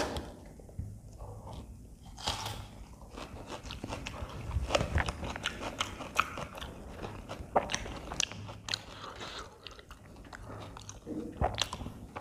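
A person biting and chewing aloo paratha, potato-stuffed flatbread, with a dense run of short clicks and crackles from the mouth and the tearing bread.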